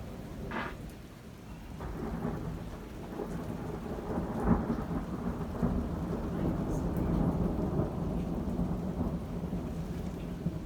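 Heavy rain falling steadily while close thunder rolls in, growing louder from about two seconds in. There is a sharp crack a little before the middle, and the rumble goes on until near the end.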